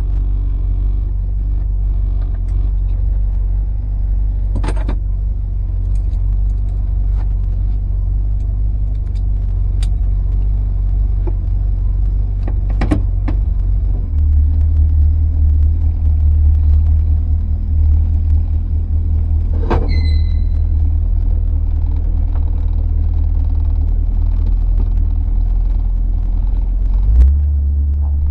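1968 Ford Torino GT convertible's engine idling with a steady low rumble. About halfway through, the idle note changes and grows louder as the shifter is moved into gear. There are a few light clicks along the way and a thump near the end as the car starts to roll.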